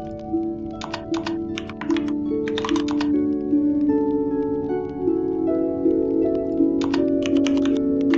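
Computer keyboard typing in short bursts of rapid keystrokes, three or four bursts with pauses between, over calm background music.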